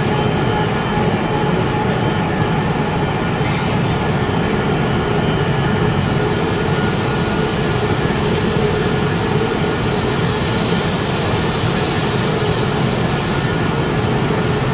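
Wood pellet production line machinery running steadily under load, a continuous loud industrial noise with a few faint steady tones in it.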